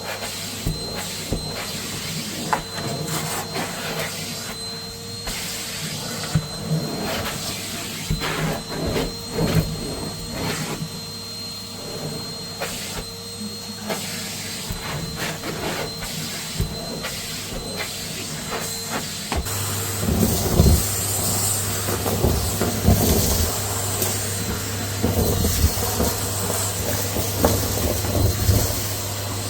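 Vacuum cleaner running with a steady hum and a faint high whine, sucking up dirt and lint with scattered crackles and clicks. About twenty seconds in, the sound changes to a deeper hum with more rustling and crackling.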